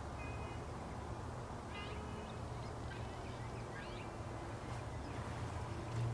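Small birds chirping: short, quick chirps every second or so, over a steady low hum.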